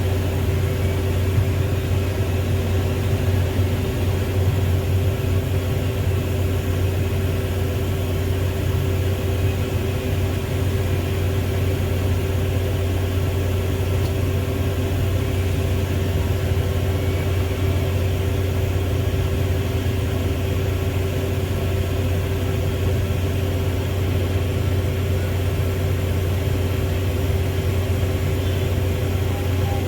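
Heavy diesel engine running steadily at an even speed, a constant low hum with no revving.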